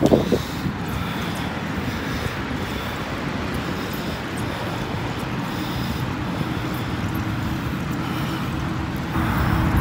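Steady wind rushing over a phone's microphone while riding a bicycle, with a brief louder gust right at the start.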